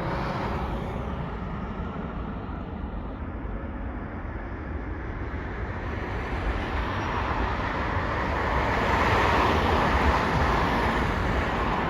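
Jet engine noise of a departing Boeing 787 at takeoff power. The broad rushing roar dips a little, then swells to its loudest about nine to ten seconds in.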